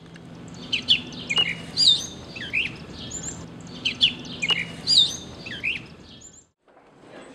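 Birdsong: a short phrase of chirps and whistles, heard twice over a low steady hum, stopping about six and a half seconds in.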